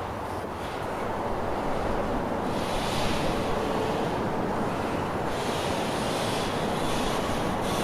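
CSX freight train rolling past: a steady rushing rumble of wheels on rail that grows a little louder about a second in and then holds.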